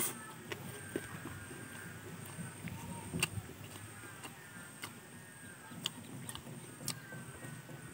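Close-miked eating sounds of fried chicken being chewed and pulled from the bone: scattered sharp smacks and crunches over soft mouth noise. A faint steady high whine and light chirping sit behind it.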